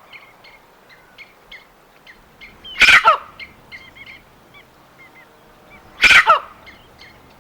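Forest ambience: small birds chirping in short, quick notes throughout, with two loud, brief animal calls about three seconds apart, each falling in pitch.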